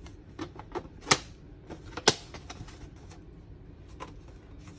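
Hard plastic diorama parts being handled and fitted: a run of irregular clicks and knocks, the two loudest about a second and two seconds in.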